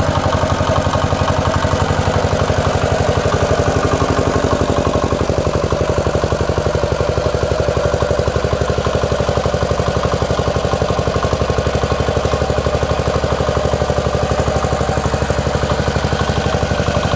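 RK Plus diesel engine driving a 3 kW generator, running steadily at an even speed with a fast, regular beat.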